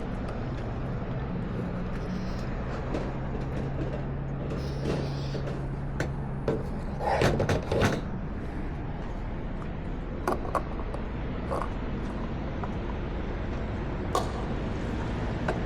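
Harley-Davidson Nightster's V-twin engine running steadily at constant revs through a Jekill & Hyde adjustable exhaust. There is a cluster of sharp knocks about seven seconds in and a few single clicks later.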